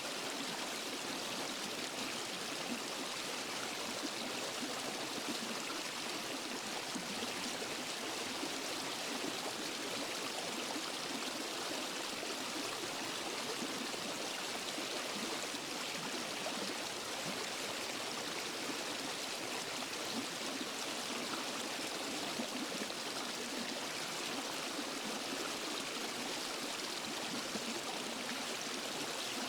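Waterfall and forest stream: a steady rush of falling and flowing water.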